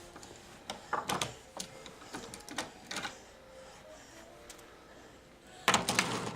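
Irregular clacks and knocks of toy trains and track pieces being handled and pushed along, with a louder cluster of knocks near the end.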